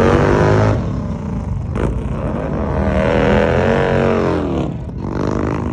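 Motorcycle engines revving as the bikes ride off. One engine note climbs and falls again through the middle, like a bike passing by.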